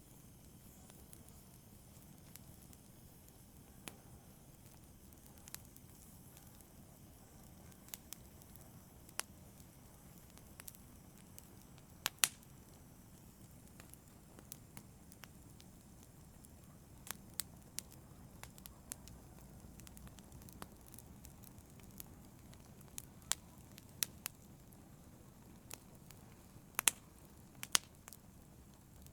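Wood fire burning in a fireplace: a faint low rumble with sharp, irregular crackles and pops, a loud double pop about twelve seconds in, and clusters of crackles in the latter half.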